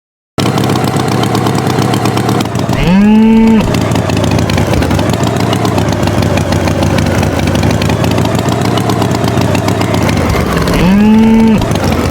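Tractor engine running steadily, with cattle mooing twice, each moo a short call that rises and then holds.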